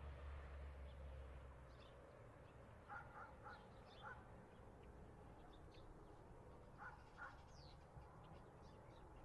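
Faint bird calls: a quick run of three or four short, harsh calls about three seconds in and two more near seven seconds, with faint high chirps from small birds scattered throughout.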